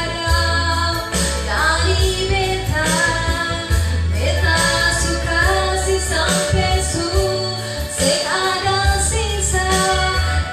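A woman singing a slow pop love song over a backing track with a steady bass line, her voice sliding up into several of the phrases.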